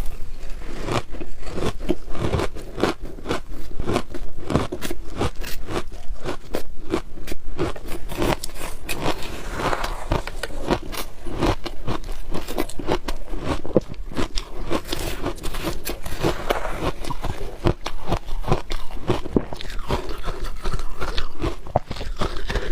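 A person biting and chewing frozen shaved ice, a dense, unbroken run of crunches and scraping crackles.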